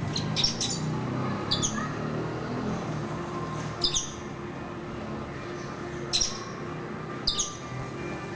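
Birds fighting, giving short, high, harsh calls that fall quickly in pitch. There are about five bursts, spaced a second or two apart.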